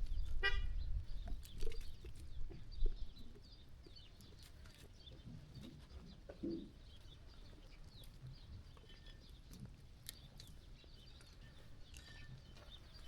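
Sheep farm ambience: a brief animal call about half a second in and a short low sheep call near the middle, with scattered knocks and clicks of the flock moving over the first few seconds, then quieter with faint bird chirps.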